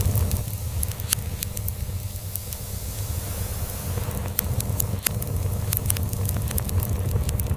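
Crackling log fire: irregular sharp pops and snaps, with a cat purring steadily underneath.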